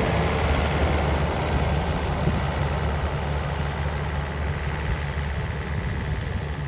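Engine of a heavy snow-clearing machine running steadily, slowly growing fainter.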